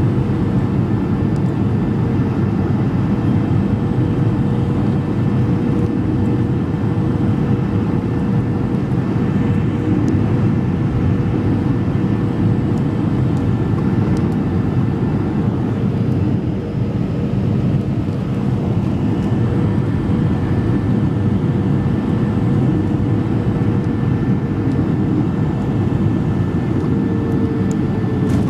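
Cabin noise aboard a Boeing 737-300 airliner: a steady, loud rush of jet engines and airflow, with a steady hum tone that drops slightly near the end.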